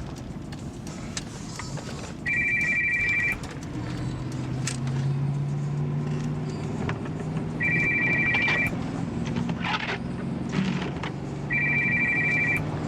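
A phone ringing three times, each ring a rapid electronic trill about a second long, some four seconds apart, over the steady running noise of a car on the move.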